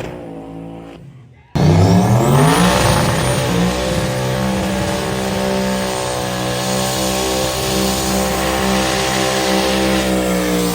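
Truck engine winding down, then, after a sudden cut, revving up over about a second and a half and held at high revs, running steadily loud.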